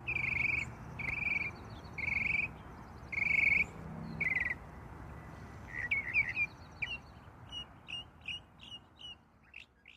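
A bird calling: five buzzy, fairly high notes about a second apart, then a faster run of short chirps that grows fainter. A steady hiss lies beneath.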